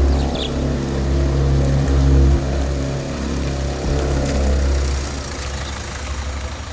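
Vehicle engine running at low revs with a steady low hum that eases off about five seconds in.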